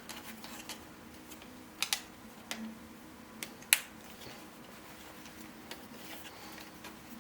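3D-printed plastic puzzle pieces clicking as they are pushed and snapped together, a handful of scattered sharp clicks, a quick pair about two seconds in and the sharpest a little after three and a half seconds.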